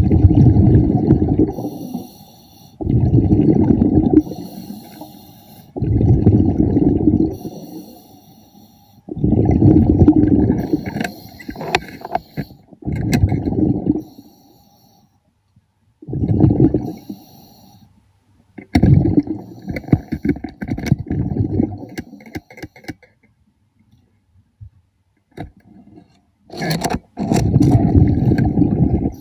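A diver breathing underwater: exhaled air leaves the regulator as a bubbling rumble in bursts of one to two seconds, about every three seconds, with a faint hiss of inhaling in the gaps. A few sharp clicks come near the middle and near the end.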